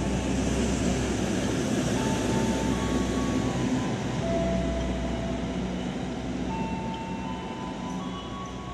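Express passenger train's carriages running through the station at speed without stopping, with the rumble of steel wheels on the rails and several brief high-pitched tones. The noise fades over the last few seconds as the end of the train draws away.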